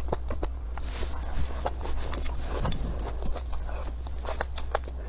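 Close-up chewing of a mouthful of stir-fried velvet antler mushrooms: irregular crisp crunches and wet mouth clicks, over a steady low hum.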